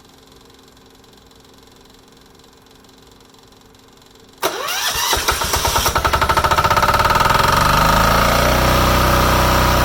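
Yanmar L100V single-cylinder air-cooled diesel on a generator, started on its electric starter about four seconds in: a brief crank with rapid pulses, then it catches and settles into a steady run.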